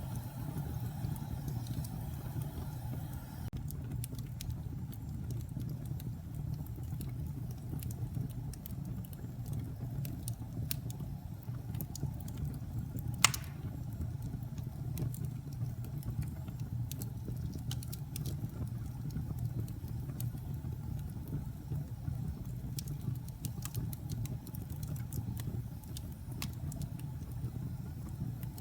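Wood fire burning in a fireplace: a steady low rumble of flames with scattered crackles, and one loud pop about 13 seconds in.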